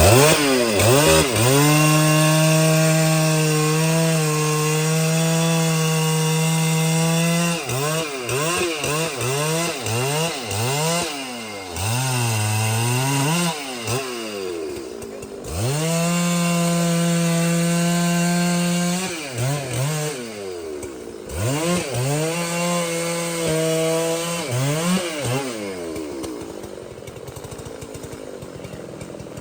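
Large two-stroke chainsaw held at full throttle while cutting through a big tree trunk, twice for several seconds, with quick revs rising and falling between the cuts as the throttle is blipped and released.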